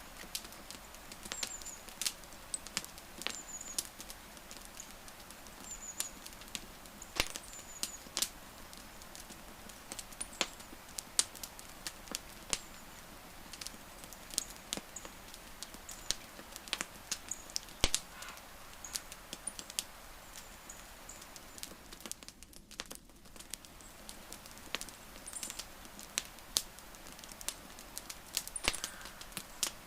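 Wood campfire crackling: a steady run of sharp, irregular pops and snaps, with faint high chirps now and then in the background.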